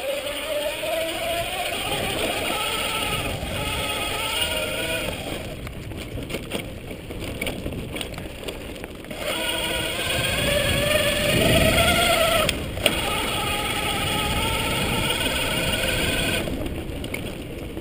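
Electric mountain bike's motor whining under power, its pitch wavering with speed over tyre and wind rumble. The whine drops out for a few seconds in the middle and again near the end, then comes back.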